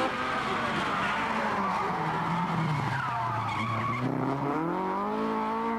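Rally car sliding through a corner: the engine revs drop away while the tyres skid and squeal, then about four seconds in the engine picks up and revs rise as it accelerates out.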